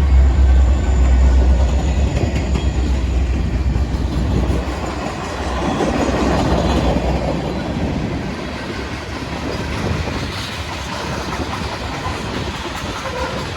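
Freight train led by Illinois Central locomotive 1015 passing close by. The locomotive's low engine rumble stops about two seconds in, giving way to the steady rolling and wheel clatter of the cars going by.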